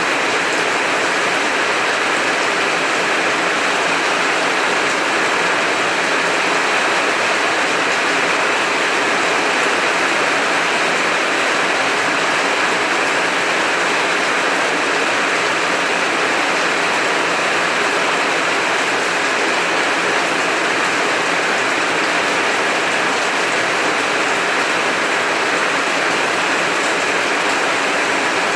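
Heavy rain falling steadily, a dense even hiss with no thunder heard.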